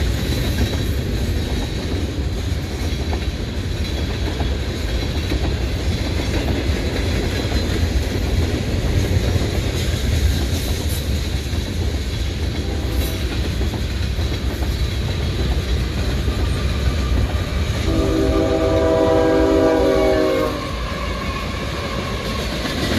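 Freight cars rolling past with a steady low rumble and wheel clickety-clack. About 18 seconds in, a diesel locomotive horn sounds one chord of several notes for about two and a half seconds, then cuts off.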